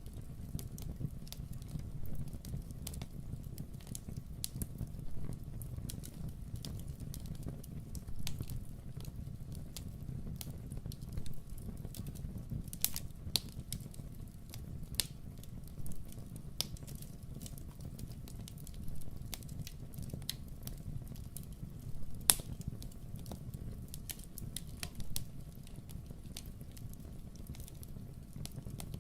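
Wood fire in a fireplace crackling, with a steady low rumble of the flames under irregular sharp pops and snaps, one louder pop about three quarters of the way through.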